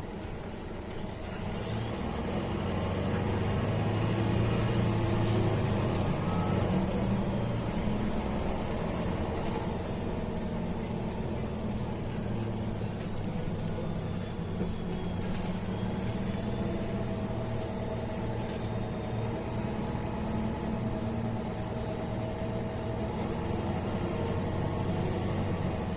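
MAN A21 city bus's diesel engine running under way, heard from inside the bus, growing louder about two seconds in as the bus pulls away and then settling to a steady run. A faint high whine rises and falls over the engine note.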